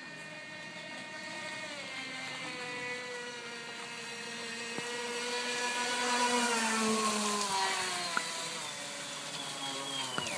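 Radio-controlled model boat's motor whining as the boat runs on the lake. It grows louder, then drops in pitch and fades as the boat passes by and moves away.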